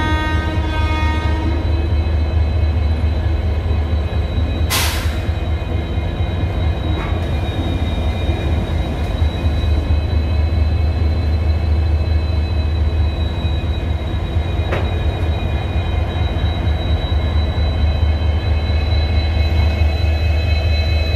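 Two EMD WDP4D diesel locomotives idling with a steady, strong low hum and a thin high whine above it. A short sharp hiss comes about five seconds in, and a single click near fifteen seconds.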